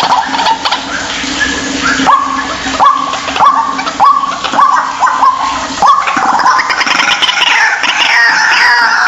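White-breasted waterhen calling: a run of repeated harsh notes, each rising sharply and then dropping, about one and a half a second. Near the end, denser and higher overlapping calls take over.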